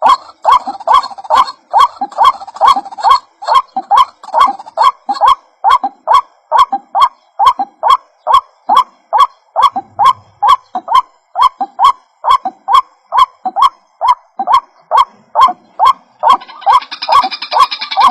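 White-breasted waterhen (ruak-ruak) call played as a bird lure: short, harsh 'kwak' notes repeated steadily at about two and a half a second, each with a sharp click at its start. Near the end a higher, busier chattering joins in.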